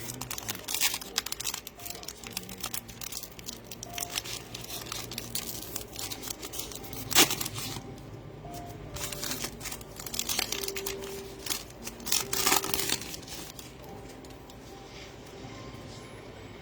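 Plastic foil wrappers of trading-card packs being torn open and crinkled as the cards are handled, in irregular crackling rasps. The sharpest tear comes about seven seconds in, and several more follow near the middle.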